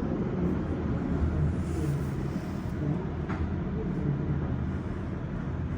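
Steady low mechanical rumble of automatic car wash machinery running.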